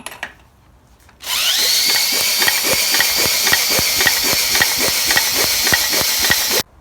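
A power drill driving the nut on a Briggs & Stratton 6 hp engine's flywheel, spinning the engine over to test for spark. The drill whines up to speed about a second in, a regular tick sounds about four times a second while it turns, and it cuts off suddenly near the end.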